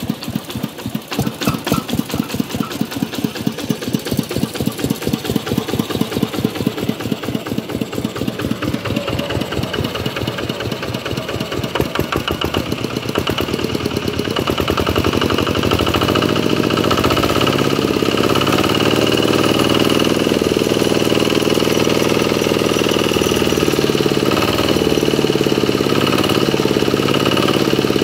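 Kubota RK125 single-cylinder diesel engine running, at first with slow, separate firing beats that gradually quicken. About halfway through it picks up speed and settles into a steady, faster, louder run.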